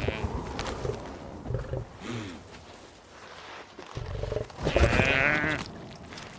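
Cape buffalo bawling: a few short, bleating calls, the loudest and longest a wavering bawl about five seconds in.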